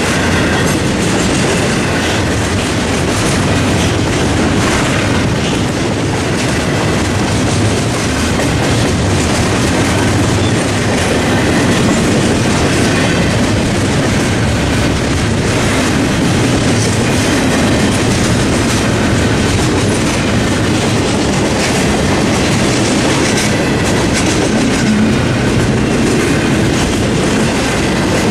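Double-stack intermodal container well cars of a freight train rolling past at a level crossing: a loud, steady rumble with the clickety-clack of steel wheels over the rail joints.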